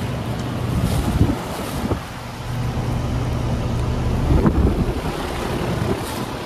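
Outdoor heat pump condensing unit running in cooling mode: a steady compressor hum under the whoosh of the condenser fan. Wind buffets the microphone twice, about a second in and again past the middle.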